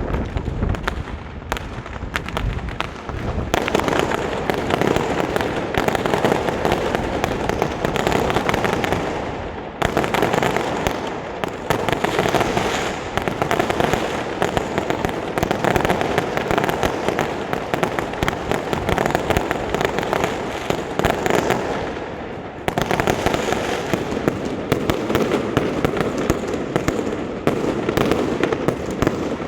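New Year fireworks display: dense, continuous crackling and popping of many shells going off in quick succession. It swells in three waves, a few seconds in, about ten seconds in and again after about twenty-two seconds.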